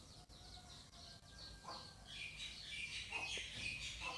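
Small birds chirping faintly in the background, many short chirps in quick succession, growing louder about halfway through.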